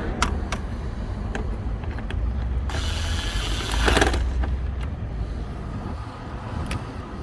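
Low-torque screwdriver driving screws into plastic dashboard trim, with scattered sharp clicks and one longer spell of running about three seconds in.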